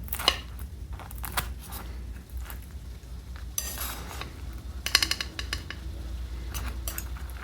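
Crispy lacy flour-and-water crust of pan-fried gyoza crunching and crackling as it is broken, in a few short crackly bursts, with sharp clicks of utensils against the plate.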